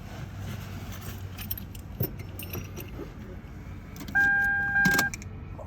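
Car keys jangling and clicking at the ignition of a 1999 Toyota 4Runner before a cold start. About four seconds in, the dashboard warning chime gives a steady beep for about a second, with a sharp knock near its end.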